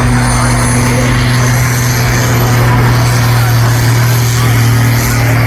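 Pulling tractor's engine running hard at a steady high throttle, loud and unbroken, with a thin high whine that rises slowly above it.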